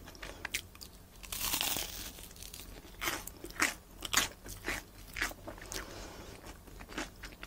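Biting into crisp deep-fried rice-bread shrimp toast (menbosha): a long crunch at the bite about a second in, then crunchy chewing, about two crunches a second.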